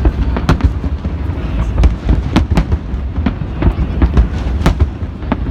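Fireworks display going off: irregularly spaced sharp bangs and cracks, roughly two a second, over a continuous low rumble of more distant bursts.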